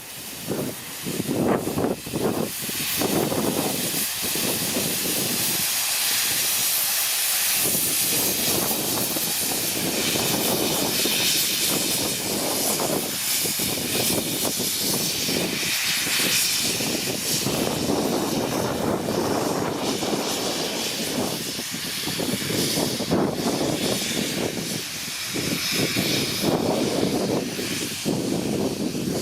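Steam hissing steadily from Victorian R class 4-6-4 Hudson steam locomotive No 766, with a lower rushing noise underneath that drops away briefly about six seconds in.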